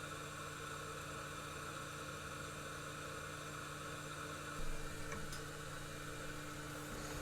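Faint, steady whir and hiss of a small workbench fan with a constant low hum. A couple of light taps come about four and a half to five seconds in.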